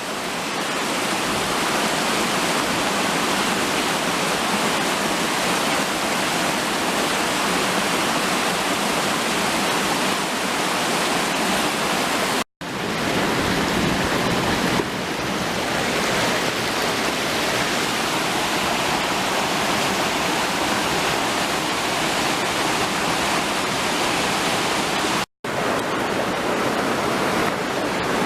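Waterfall pouring steadily, an even rush of falling water. The sound cuts out completely for an instant twice, about twelve seconds in and again near the end.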